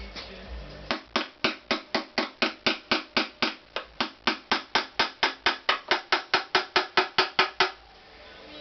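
Rapid, even hammer taps, about five a second, beginning about a second in and stopping near the end.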